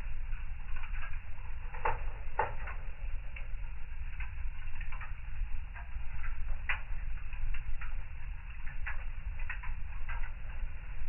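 Wood fire crackling in a fireplace: irregular snaps and pops, a few louder ones about two seconds in and again near the seven-second mark, over a steady low rumble.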